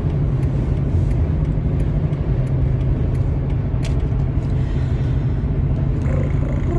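Steady low rumble of a car on the road heard from inside the cabin, with wind and outside noise coming in through a window stuck down.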